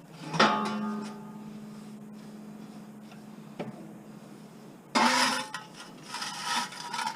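A clang about half a second in that rings on for about three seconds, then from about five seconds in, loud scraping strokes of sweeping debris up off the floor with a broom and dustpan.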